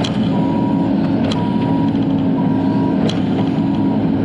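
Bobcat E42 mini excavator's diesel engine running steadily at operating temperature, heard from inside the cab, with a few sharp clicks.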